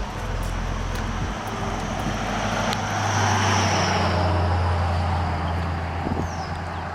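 Road traffic: a motor vehicle passing, its engine and tyre noise swelling to a peak mid-way and then easing off.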